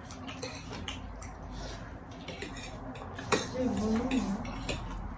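Eating utensils clinking and scraping against a bowl or plate while food is eaten, with scattered short clicks and one sharper clink a little past the halfway point.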